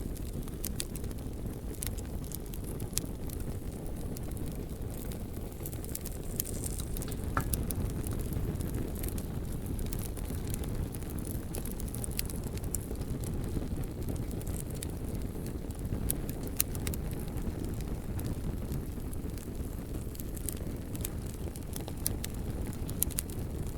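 Bonfire burning: a steady low rush of flame with scattered sharp crackles and pops from the burning wood.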